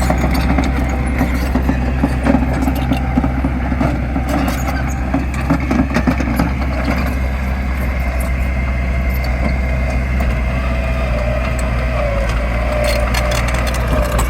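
Diesel engine of heavy earthmoving machinery running steadily, with a faint whine coming in partway through and scattered clanks.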